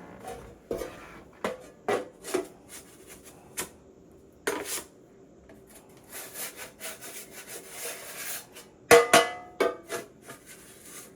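A big wide trowel scraping and spreading plaster along a wall seam in irregular strokes, feathering out the finish coat. The loudest strokes come about nine seconds in.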